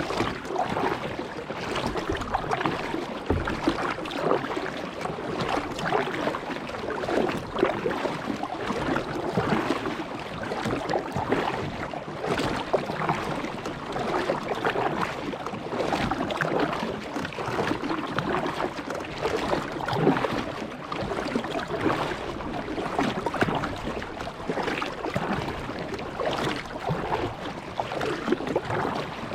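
Kayak paddling on calm water: paddle blades dipping and water splashing and trickling, with a fresh splash every second or two.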